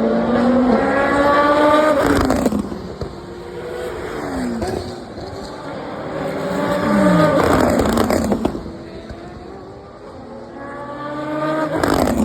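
Race cars passing at high speed one after another, each engine note climbing as it approaches and dropping in pitch as it goes by. Three loud pass-bys: about two seconds in, about eight seconds in, and at the end.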